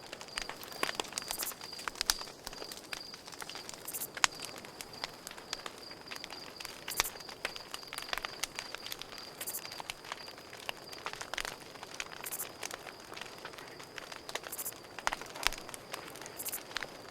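Campfire crackling with irregular pops and snaps, over a steady high cricket trill.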